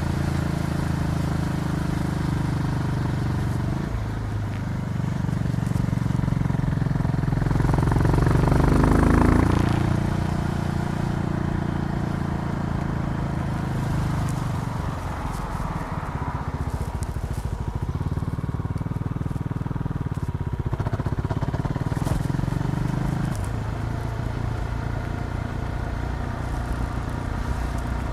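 KTM Duke 390's single-cylinder four-stroke engine running under way, its pitch shifting in steps as the revs change. It climbs to its loudest around nine seconds in, then settles back to a steady run.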